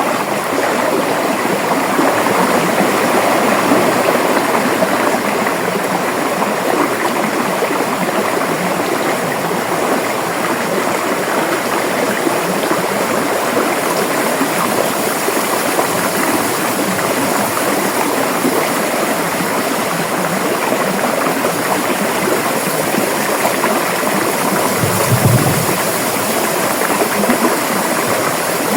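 River water flowing, a steady rushing noise, with a brief low thump about 25 seconds in.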